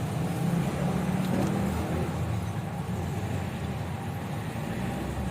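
A truck's diesel engine running steadily with a low, even rumble, on used-cooking-oil biodiesel.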